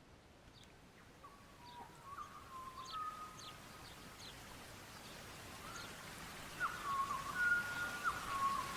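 Birds calling: short high chirps and whistled notes that hold a pitch and then jump to another, busiest in the second half. Underneath is a hiss that grows louder.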